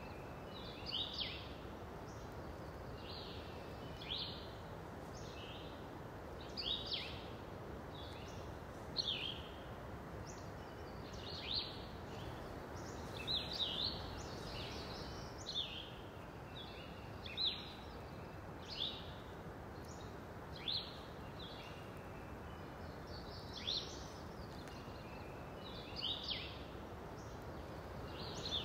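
Birds calling: short high notes that sweep down in pitch, repeated every second or so at uneven spacing, over a steady outdoor background hiss.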